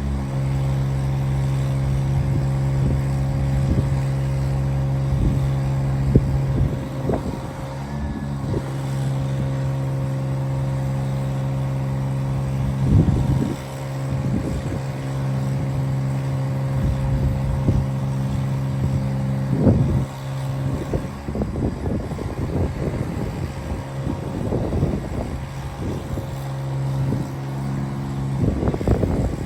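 2008 GMC 7500 bucket truck running with a steady hum, which stops near the end, overlaid by gusts of wind buffeting the microphone.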